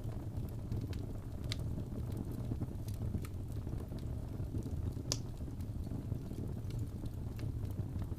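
Fire burning in a fireplace: a steady low rumble of flame with scattered sharp crackles and pops, the loudest pop about five seconds in.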